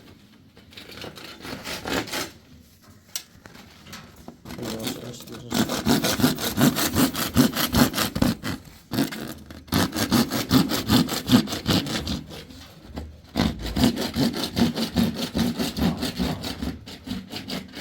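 Hand sawing: rapid back-and-forth strokes, about four a second, in three long runs with short pauses between them.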